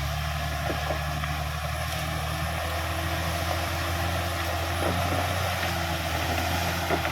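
Caterpillar D6R XL bulldozer's diesel engine running steadily at a low, even pitch, with a few faint knocks.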